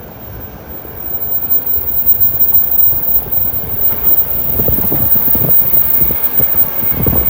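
Doctor Yellow Shinkansen inspection train going by at speed: a rushing noise that swells about a second in and stays loud, with rough buffeting in the low end toward the end.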